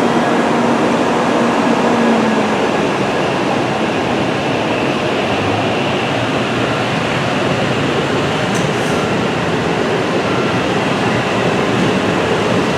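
Tokaido Shinkansen train running past the platform: a steady loud rushing noise with no clear start or stop.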